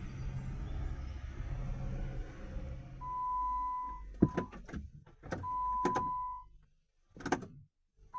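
Failed jump-start attempt on a Chrysler Grand Voyager that won't start: a low steady hum for about three seconds, then a one-second electronic beep, sharp clicks, and a second beep, with no engine cranking. The owner takes it as not enough current reaching the starter.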